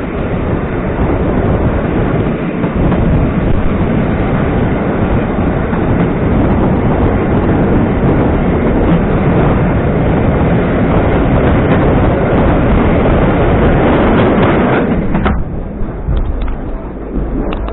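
EN57 electric multiple unit under way, heard from on board: a loud, steady rumble and rattle of wheels on rail and running gear. About fifteen seconds in, the noise suddenly drops and turns duller.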